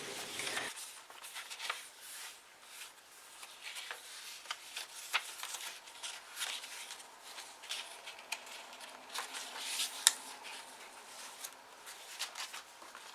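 Paper and card rustling as a handmade journal folder and its booklets are handled: irregular soft crinkles and small taps, with one sharper click about ten seconds in.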